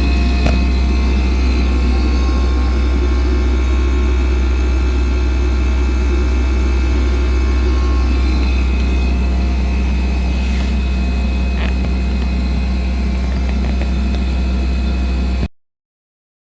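Samsung RB33J3200SS inverter refrigerator running with a steady low hum and a high-pitched buzzing whine: the fault noise it has made since new. The sound cuts off abruptly near the end.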